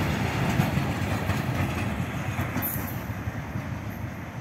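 Loaded flat wagons of a RoRo freight train, carrying trucks, rolling past on the track: a steady noise of steel wheels on rail that gets gradually quieter as the train goes by.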